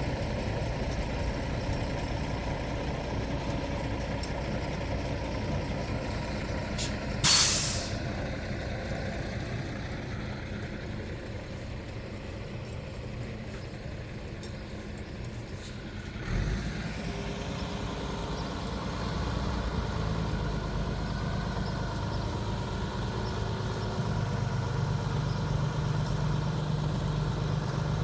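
Heavy truck's diesel engine idling, with a short, loud air-brake hiss about seven seconds in. The engine note shifts just after halfway and rises near the end, as the vehicle manoeuvres.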